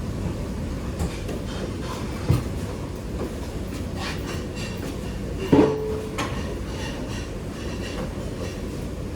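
Kitchen clatter over a steady low rumble: a few knocks and clanks, the loudest about five and a half seconds in, with some faint scraping around the middle.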